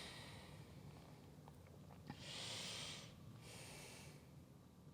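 A person's breathing close to the microphone: two audible breaths a little over a second apart, the first about two seconds in, over a faint steady hum.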